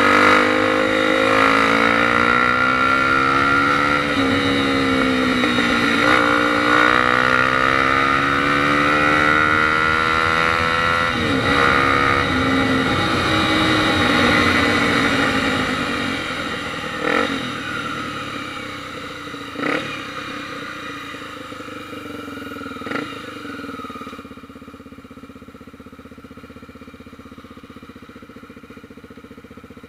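Motorcycle engine accelerating hard through the gears in a street race, its pitch climbing and dropping at each shift. The engine eases off about halfway through and grows quieter, with a few sharp knocks along the way.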